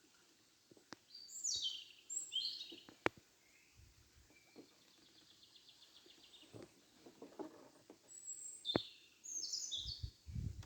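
A songbird singing two short phrases of quick, falling high notes, with a softer run of repeated notes between them. A few sharp clicks, and low rumbling noise comes in near the end.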